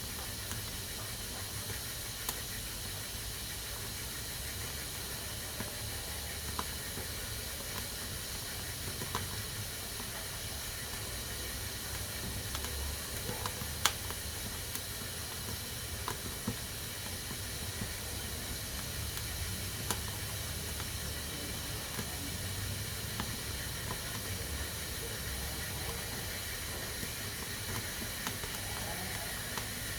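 Pressure cooker hissing steadily as steam escapes from its valve, with occasional sharp clicks, the loudest about fourteen seconds in.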